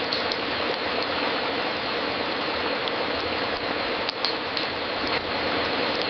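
Wood fire crackling in a fireplace: a steady dense hiss and crackle with occasional sharp pops, a pair just after the start and a small cluster about four seconds in.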